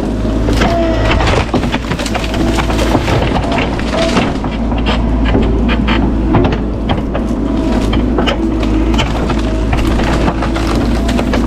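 Bobcat E42 mini excavator's diesel engine running steadily under load while wood cracks and snaps repeatedly as a large tree is pushed and dragged, with brief squeaks coming in now and then.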